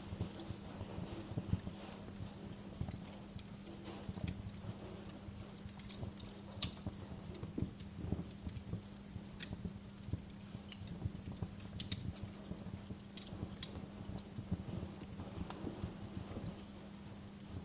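Wood fire in a fireplace crackling, with irregular pops and snaps over a steady low hum.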